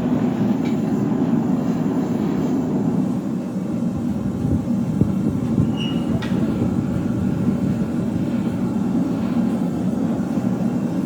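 A forge running with a steady low roar, with a few faint clicks over it.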